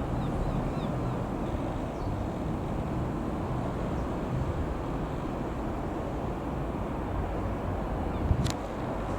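Steady drone of a light aircraft's four-cylinder piston engine (Piper PA-28-151 Cherokee Warrior) passing over, mixed with wind buffeting the microphone. A short knock comes near the end.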